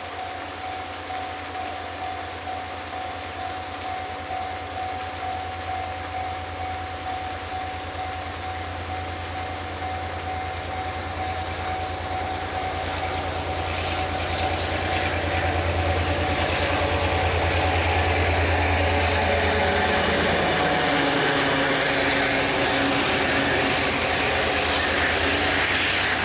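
Diesel locomotive of a Taiwan Railway freight train approaching and passing. Its engine drone grows louder and drops in pitch as it goes by about two thirds of the way in, then the loaded freight wagons rumble past on the rails. Fish-pond paddlewheel aerators splash and whine steadily throughout.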